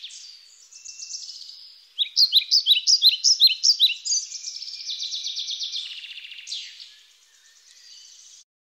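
Songbird singing: a series of quick, bright downward chirps, about five a second, starting about two seconds in, followed by rapid trills. The song fades near the end and cuts off abruptly.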